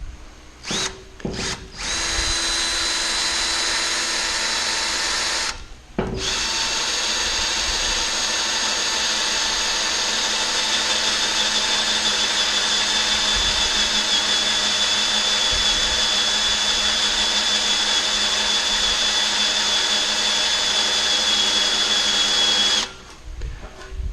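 Power drill boring a bolt hole through metal framing: two short trigger blips, a steady run of a few seconds, a brief stop, then a long steady run with a high whine from the bit, which cuts off near the end.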